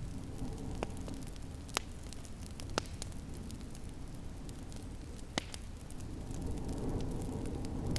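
Wood fire crackling in a fireplace, with a few sharp pops, over a steady low rumble that grows a little louder near the end.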